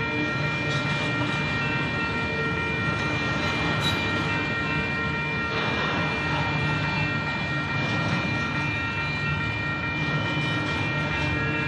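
Double-stack intermodal freight cars rolling steadily through a grade crossing: a continuous rumble and clatter of steel wheels on rail, with steady high ringing tones over it from the crossing's warning bell.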